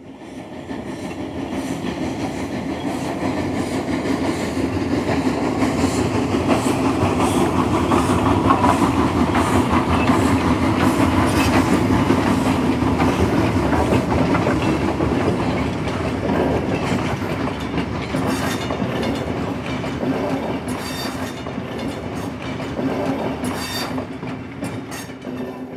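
A train rolling by: a steady rumble that swells over the first several seconds and slowly fades, with rhythmic clicks of wheels over rail joints in the later part.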